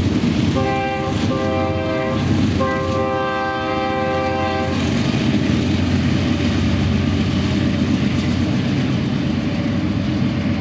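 Multi-chime air horn on a BNSF diesel locomotive sounding three blasts, two short and one long, in the first five seconds. Beneath it runs the steady low rumble of the locomotives working at full throttle (notch 8) up the grade.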